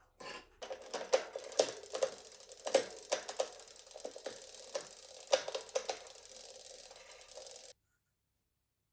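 Workshop sounds of hands and tools on bicycle parts: a run of irregular metallic clicks and knocks over a steady hiss. The sound cuts off abruptly near the end.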